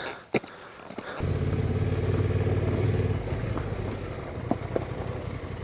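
Honda Transalp motorcycle engine starting about a second in and running steadily, settling to a slightly quieter idle a couple of seconds later. A few small clicks come just before it starts.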